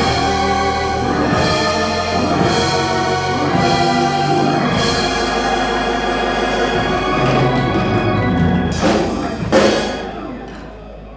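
Church organ holding chords with drums underneath, two loud crashes near the end, then the music dies down.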